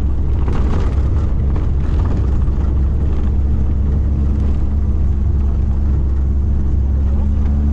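Vehicle running steadily on the move: a constant low rumble with a steady engine hum over it.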